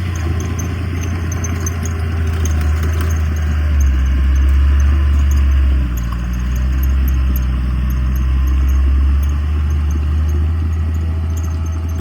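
Heavy diesel earthmoving engine running with a deep steady drone and light clatter, pulling louder twice under load, about four seconds in and again just after the middle.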